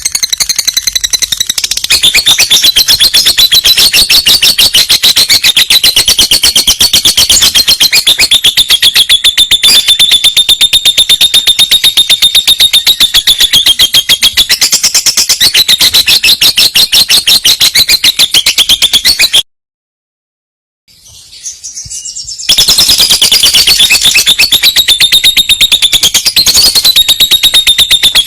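Lovebird singing a long trill, the 'rol panjang': a high, buzzy run of very fast repeated notes that goes on for many seconds. It breaks off about two-thirds of the way through for a few seconds, with faint chirps, then starts again.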